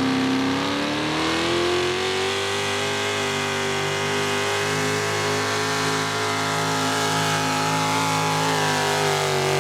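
A pulling truck's engine at full power on a hook pass, the revs climbing over the first two seconds and then held high and steady, sagging briefly near the end.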